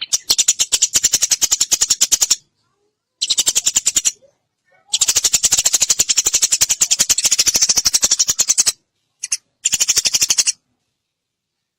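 Eurasian tree sparrow giving a fast chattering call, a rapid run of short sharp notes, about ten a second, in four bursts of one to four seconds with short pauses between them.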